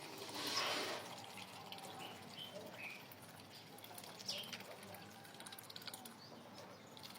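Ducks feeding, their bills dabbling wetly with many small clicks, and a few short, soft calls.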